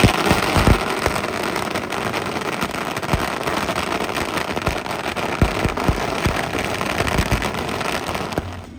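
A long string of firecrackers going off in a dense, continuous crackle with sharper bangs mixed in, stopping abruptly near the end.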